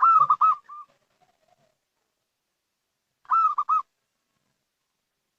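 Zebra dove (perkutut) cooing: a quick phrase of about five short arched notes, then a second phrase of three notes about three seconds later.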